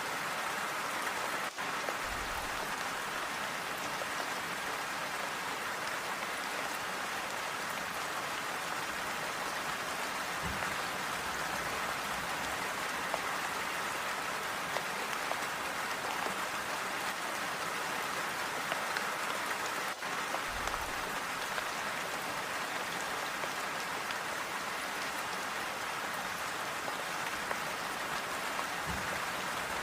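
Steady, calm rain falling and pattering without thunder, with an occasional soft low thud.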